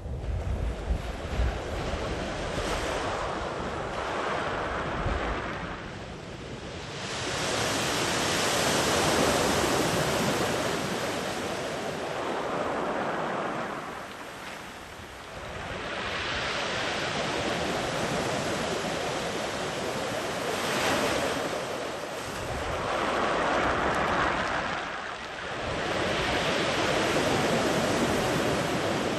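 Sea waves breaking and washing up a sandy beach, the surf swelling and easing in long surges every several seconds. Wind buffets the microphone with a low rumble in the first few seconds.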